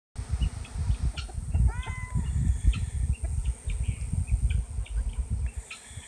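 A honeybee swarm in flight, heard as an uneven low buzzing that swells and fades as bees pass close to the microphone, with short bird chirps over it.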